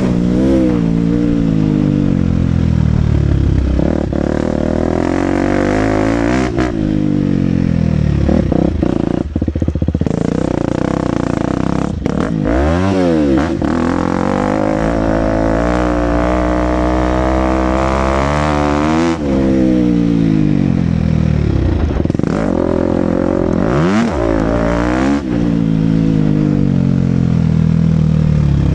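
KTM 250 SX-F single-cylinder four-stroke motocross engine under riding load, its pitch climbing as the throttle opens and falling away again every few seconds.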